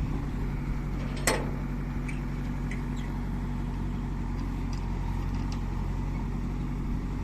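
Diesel engine of a heavy farm or construction machine running steadily at low revs, with one sharp knock about a second in.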